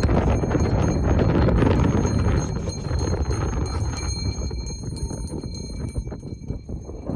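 A horse's hooves clip-clopping at a walk, over a loud low rumbling noise.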